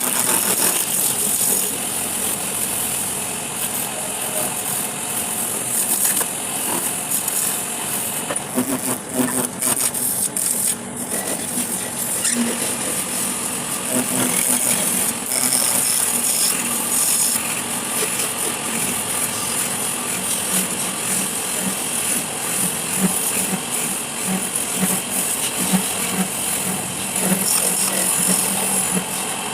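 Power tool working wood: a steady grinding hiss with rattling.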